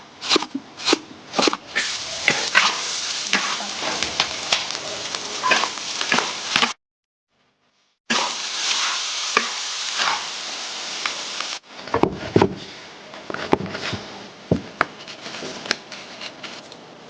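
Food sizzling in a pan, with frequent clinks and scrapes of utensils. It stops dead for about a second and a half midway, then resumes.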